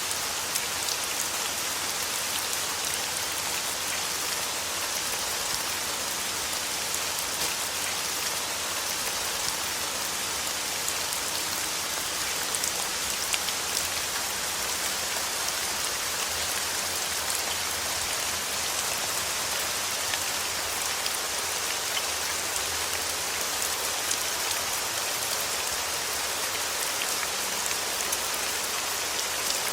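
Steady rain falling: a dense, even hiss dotted with many small drop ticks, without let-up.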